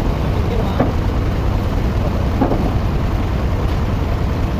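A steady, loud, low engine rumble, like heavy machinery running, with two faint short sounds about one and two and a half seconds in.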